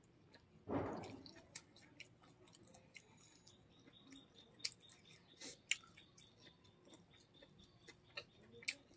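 Close-miked chewing of a mouthful of rice and chicken gizzard curry, with soft wet mouth clicks scattered throughout and one louder burst of noise about a second in.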